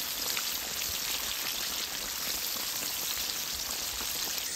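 Breaded chicken pieces frying in hot oil in a cast iron skillet: a steady sizzle with fine, constant crackling from the bubbling oil.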